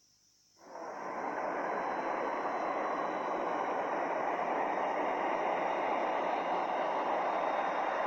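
Steady rushing engine and air noise of an aircraft. It fades in after a moment of silence and holds even, with a faint high whine above it.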